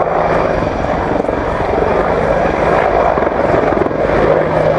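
Helicopter flying close by, its rotor chopping steadily under a constant engine hum.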